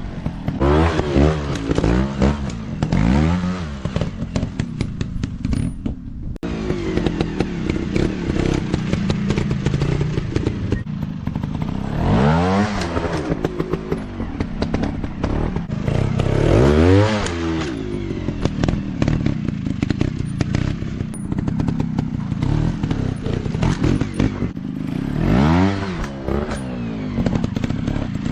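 Dirt bike engines revving hard and falling back, over and over, with clattering and knocks throughout.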